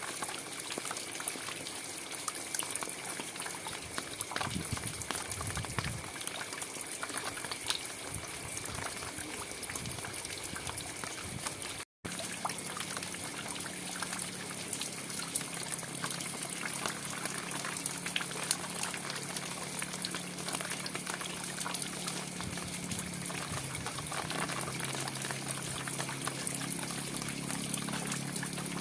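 Steady rain falling, a dense patter of drops with water trickling and pouring. The sound cuts out for an instant about twelve seconds in, and a faint low hum runs under the rain after that.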